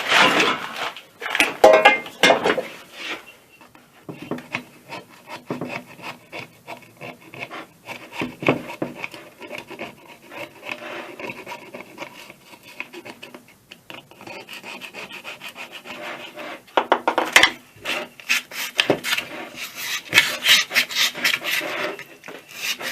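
Sandpaper rubbed back and forth by hand over the gasket face of an air compressor's cylinder, in quick scraping strokes that grow louder near the start and again toward the end. The sanding cleans the remains of the old gasket off the face before silicone sealant goes on.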